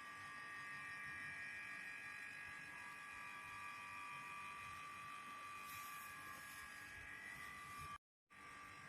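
Cordless handheld vacuum cleaner's motor running with a steady high whine. It cuts out abruptly for a moment near the end, then resumes.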